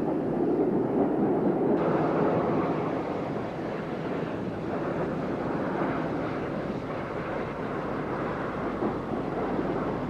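Steady rumbling running noise of a railway train, its tone turning brighter about two seconds in.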